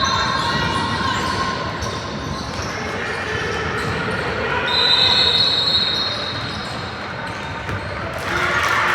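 Basketball game in a gym: a ball bouncing on the court amid crowd noise in a large echoing hall, with short high squeaks just before the start and again about five seconds in.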